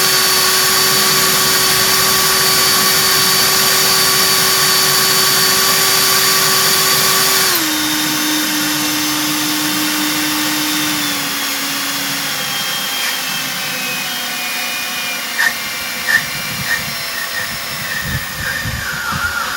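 EGO cordless leaf blower's brushless fan running at turbo speed with a steady high whine. About seven and a half seconds in it steps down in speed and gets quieter, then slows further around twelve seconds as it is turned all the way down. A couple of short knocks come near the end.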